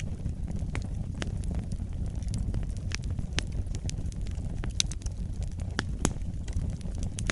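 Fireplace fire crackling, with irregular sharp pops over a steady low rumble of flames.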